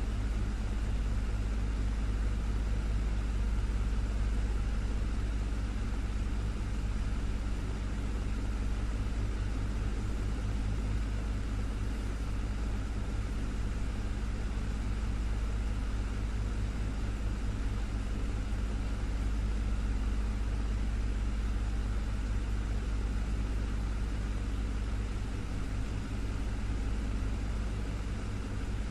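Desktop fan running steadily: a low motor hum under an even whoosh of moving air.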